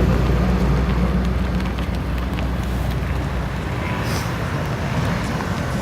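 Car engine running with a deep, steady rumble as a car drives off, easing off about two seconds in.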